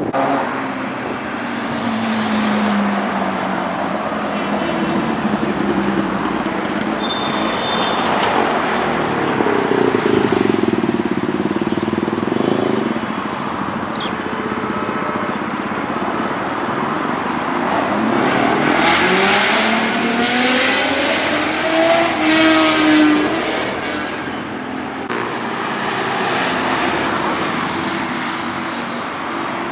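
Superbike engines passing and revving over steady traffic noise. The engine pitch drops as one passes early on, and about two-thirds of the way through another climbs as it accelerates, the loudest moment, before falling away.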